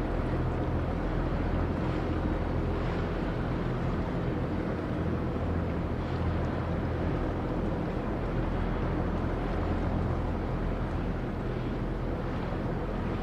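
Engine of a river sand barge running with a steady low drone.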